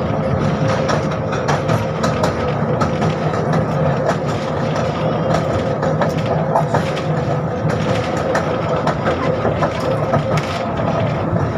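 Interior noise of a 71-605 (KTM-5M3) tram with resistor-contactor control and DK-259 motors: a steady hum with constant tones and frequent small rattles and clicks.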